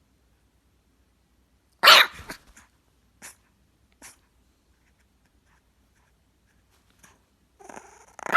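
A dog barking: one loud bark about two seconds in, and another right at the end after a softer lead-in, with a few faint short sounds between.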